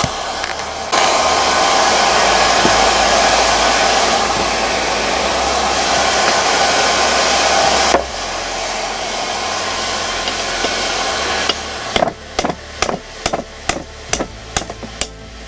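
Forge running with a steady rushing noise that steps louder about a second in and drops back after several seconds. Near the end, a hammer strikes hot steel on an anvil in a quick, even rhythm of about three blows a second.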